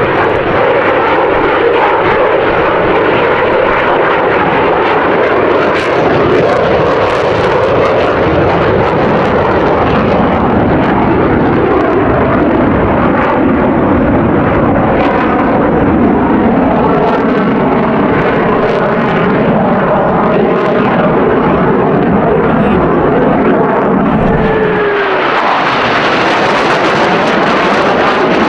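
Demonstration aircraft flying low overhead, engine noise loud and steady with a sweeping, shifting quality as the planes pass. A pitch drops noticeably about 25 seconds in as one aircraft goes by.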